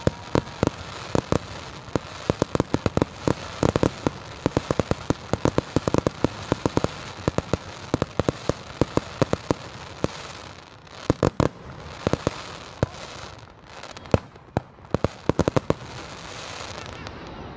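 Fireworks crackling: a dense, rapid run of sharp cracks and pops, with louder clusters of bangs about eleven and fifteen seconds in.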